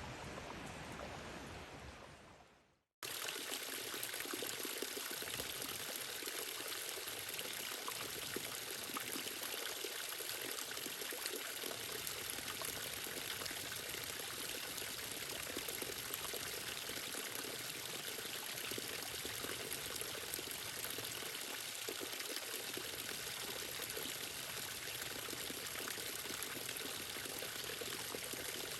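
Steady rushing and trickling of flowing water, starting suddenly about three seconds in, after the sound before it fades to silence.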